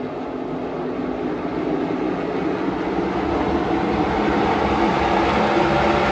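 A pack of NASCAR race trucks' V8 engines running at speed on the track: a steady rumble of several engines that grows gradually louder.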